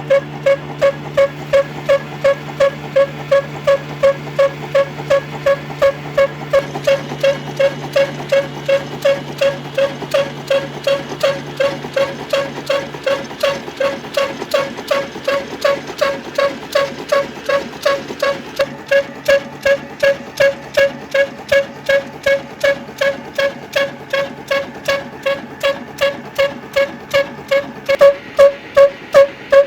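Old stationary engine running slowly and steadily, beating out about two ringing pops a second. A lower steady hum under it stops about halfway through, and the beats grow louder near the end.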